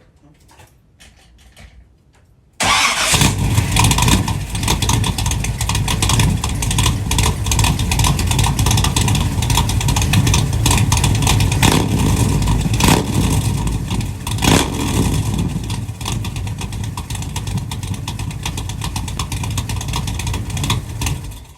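A 383 stroker small-block Chevy V8 in a Camaro, straight-piped with the muffler removed, bursts into loud running about two and a half seconds in. It keeps running loud, swelling and easing a few times, then cuts off suddenly near the end.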